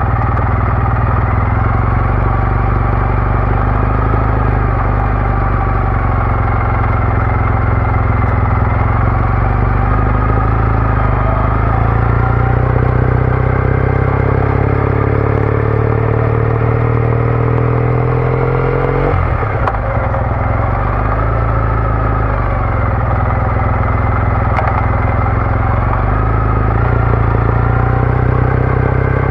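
Triumph Bonneville T214's air-cooled parallel-twin engine running through a TOGA aftermarket exhaust while riding. About twelve seconds in, the engine note climbs steadily as the bike accelerates. A few seconds before the two-thirds mark it drops suddenly with a gear change, then holds a steady cruising note.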